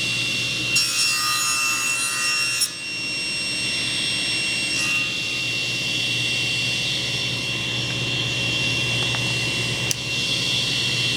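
Power miter saw running and cutting through a wood board, over a steady mechanical hum. A higher whine comes in about a second in and lasts about two seconds.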